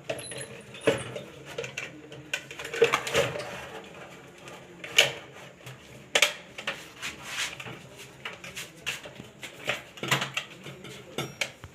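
Irregular clicks, knocks and clinks of hands and tools working on a car's fuel pump assembly as its fuel pressure regulator valve is changed; the regulator was found not to hold fuel pressure, the cause of the hard starting.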